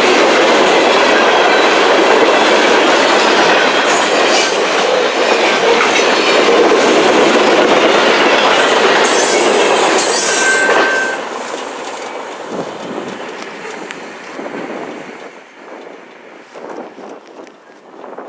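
Train cars rolling past close by with a clickety-clack over the rail joints and a brief wheel squeal; about eleven seconds in the sound drops off and fades away as the end of the train passes.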